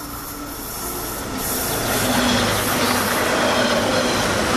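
A train passing on the tracks, growing louder about a second and a half in as it draws near: a steady rumble of wheels on rails.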